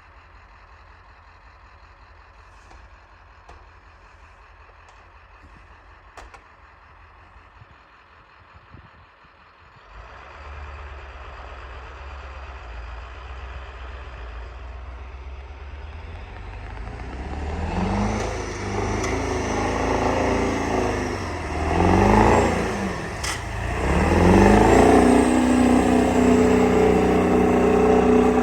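Truck engine, low at first, picking up about ten seconds in and then revved again and again from about eighteen seconds, louder with each push, as the truck tries to drive itself out on ice. A single sharp clack comes about twenty-three seconds in.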